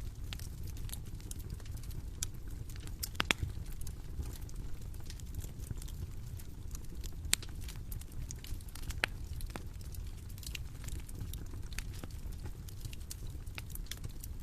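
Bonfire crackling: irregular sharp pops and snaps over a steady low rumble, with a louder pop about three seconds in and another about seven seconds in.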